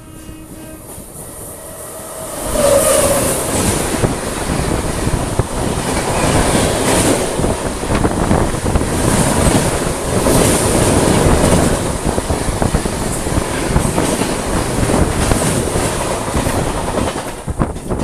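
Express passenger train running on the rails, its wheels clattering over the track joints. The clatter comes in suddenly and loudly about two seconds in and eases off near the end.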